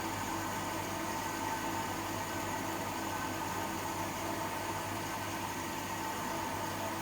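Privileg 804 washing machine running: a steady hum with an even hiss and a few constant tones, no rhythm or pauses.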